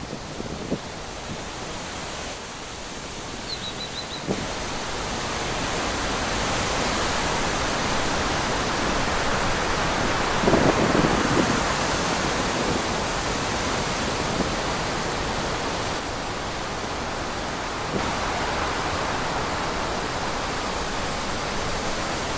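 Wind blowing through trees, a steady rushing that swells into stronger gusts around the middle. A brief high chirp sounds about three and a half seconds in.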